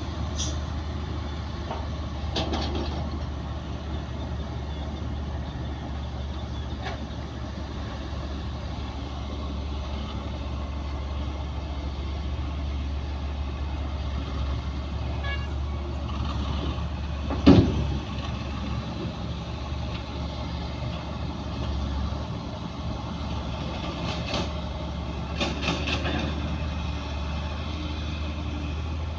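Bulldozer's diesel engine running steadily while it works, with a few clanks and one sharp loud bang about two-thirds of the way through.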